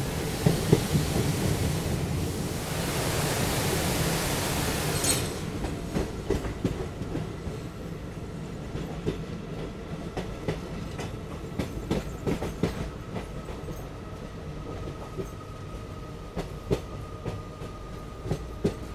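A moving ICF-coach passenger train heard from an open coach door. A loud rushing noise fills the first five seconds and stops abruptly. Then the wheels clack irregularly over rail joints, with a faint steady whine underneath.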